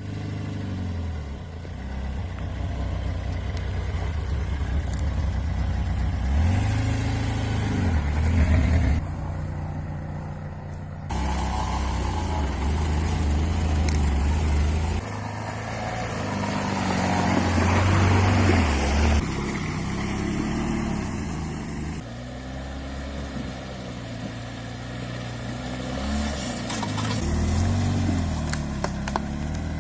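Lada Niva 4x4 engine running and revving over and over, its pitch rising and falling, with several abrupt jumps in the sound where the footage is cut.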